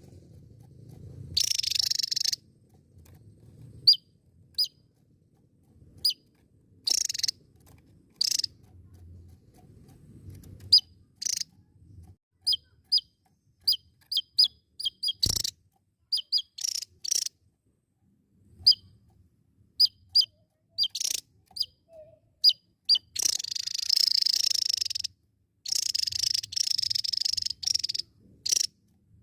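Javan tesia singing: sharp, high single chips, scattered at first and then in quick runs, broken by longer buzzy trills, with the longest trills in the last few seconds.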